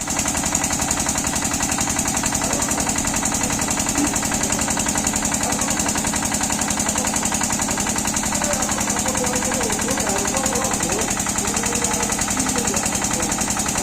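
Engine running steadily with a rapid, even beat and a constant hiss over it, the engine that the onlooker declares has failed.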